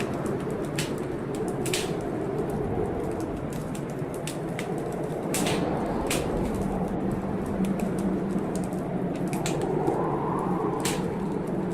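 Wood fire crackling in a fireplace, with sharp pops at irregular intervals, over the steady rush of heavy blizzard wind that swells a little about halfway through.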